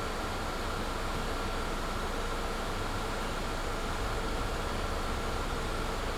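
Cabin of a Mercedes-Benz Citaro C2 G articulated bus: the loud heater blower gives a steady hiss with a constant high whine over low engine rumble. The rumble swells slightly about four seconds in.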